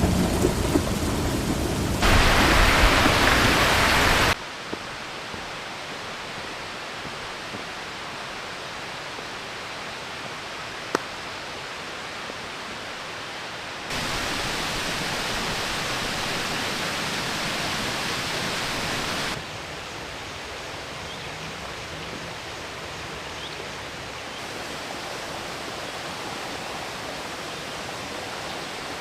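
Heavy rain falling steadily, heard in a string of cut shots that jump in loudness, loudest in the first four seconds. A low thunder rumble sounds in the first two seconds, and there is a single sharp click about eleven seconds in.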